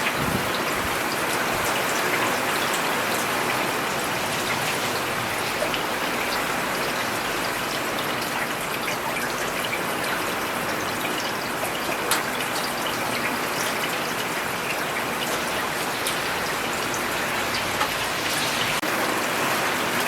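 Steady rain falling on a road: an even hiss with individual drops ticking through it, one slightly sharper tick about twelve seconds in.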